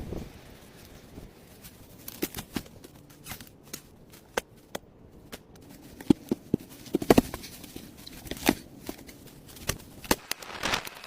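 Irregular sharp clicks and light knocks, scattered unevenly, with small clusters about two, six to seven, and ten seconds in.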